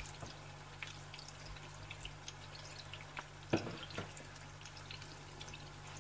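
Faint crackle and spit of a chicken patty frying in a little oil in a pan, with a soft knock about three and a half seconds in.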